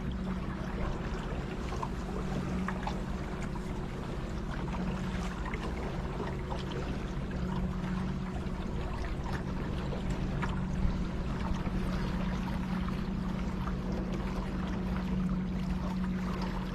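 A small boat's motor running steadily with a constant low hum, with water splashing and trickling along the hull as the boat moves.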